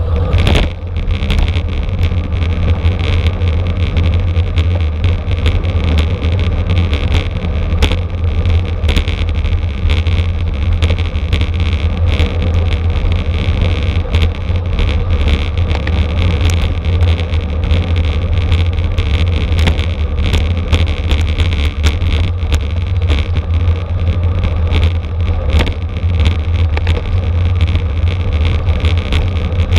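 Wind buffeting the microphone of a camera on a racing bicycle moving at speed, a loud steady rumble. Frequent short rattles and clicks run through it, typical of the bike jolting over the road surface.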